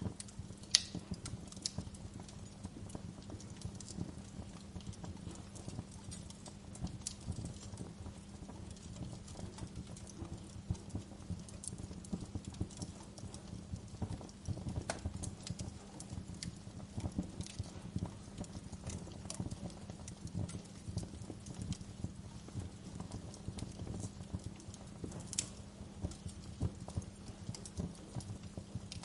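Wood fire crackling: irregular sharp snaps and pops, the loudest just under a second in, over a low rumble and a steady low hum.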